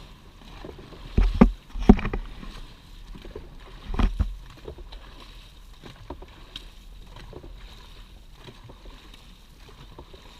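Dragon boat paddles stroking the water off a race start: repeated splashes and knocks over a low wash of water noise, with a few loud thumps in the first four seconds.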